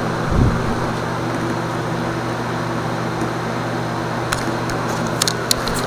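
A 20-inch box fan running on its high setting: a steady rush of air over a motor hum. A low thump comes about half a second in, and a few faint clicks near the end.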